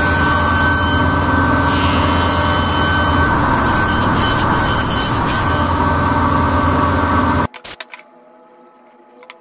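Power woodworking machine running steadily under cut, a loud whine with several high steady tones over a low hum. It stops abruptly about seven and a half seconds in, leaving faint clicks and handling.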